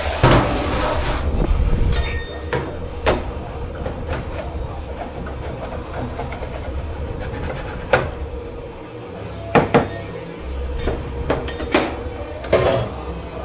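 Commercial kitchen dish-pit clatter: crockery, pans and utensils knocking and clanking at irregular moments over a steady low rumble of kitchen machinery, with a short rush of hissing noise in the first second.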